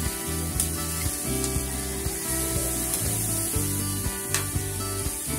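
Pufferfish pieces sizzling in hot oil in a wok as they are stir-fried with a metal spatula, with a few sharp clicks of the spatula against the pan.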